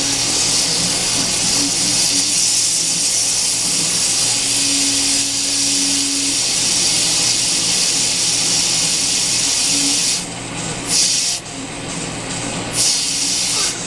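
Steady hiss of beer foam fizzing out of a gushing, over-carbonated bottle of stout, breaking into stops and starts about ten seconds in.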